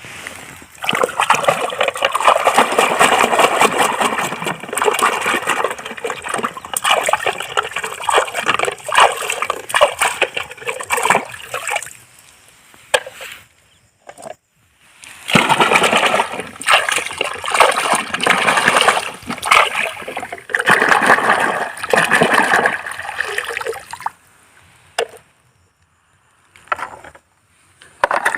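Water splashing and sloshing as toy vehicles are washed in a river, in two long stretches broken by short pauses.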